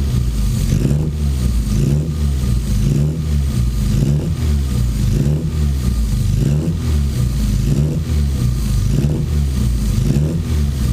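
Classic Mini's four-cylinder engine running through a new exhaust, its revs rising and falling repeatedly. The owner reports it running rich on fuelling that is not yet set up.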